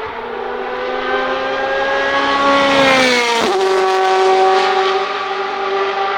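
Ferrari 458 Italia GT2 race car's naturally aspirated 4.5-litre V8 accelerating past. Its pitch climbs slowly, drops sharply as the car goes by about three and a half seconds in, then holds steady as it pulls away.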